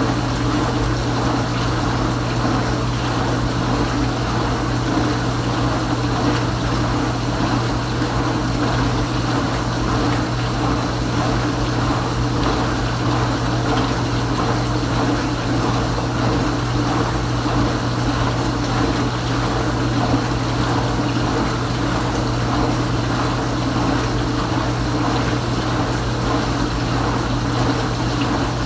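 Kenmore Ultra Wash 3 dishwasher running its pump with water spraying and rushing inside the tub: a steady hum under even water noise.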